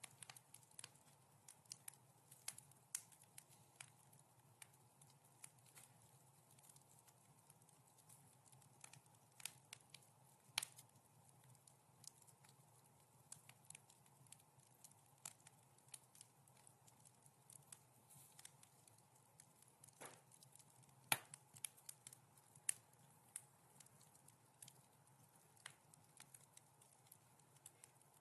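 Wood fire crackling in a fireplace: scattered, irregular small pops and snaps, with one louder pop about three quarters of the way through.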